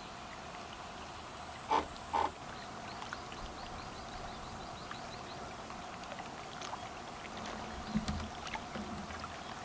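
Waterside evening ambience with a steady insect buzz. About two seconds in come two short, loud, pitched calls, and a few low knocks follow near the end.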